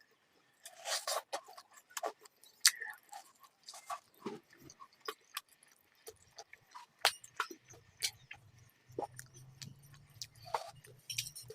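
Close-up eating sounds: a person chewing, with irregular sharp mouth clicks and wet lip smacks. A faint low hum comes in about two-thirds of the way through.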